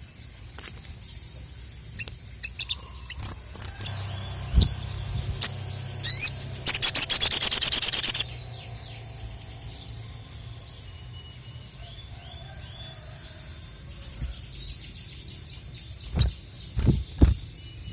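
A sogok ontong (ruby-cheeked sunbird) singing: scattered short, high chirps and sharp notes, with one loud, rapid trill of evenly repeated notes lasting about a second and a half near the middle. A few low thumps near the end.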